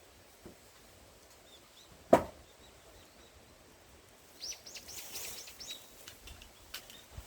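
A large forged axe striking a knotty pine log once, a single sharp chop about two seconds in. A few seconds later comes a brief run of light, high crackling clicks.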